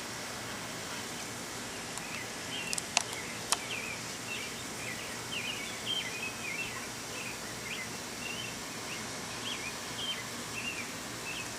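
A songbird sings a long, rambling run of short, varied chirps over a steady outdoor background hum. A few sharp clicks sound about three seconds in.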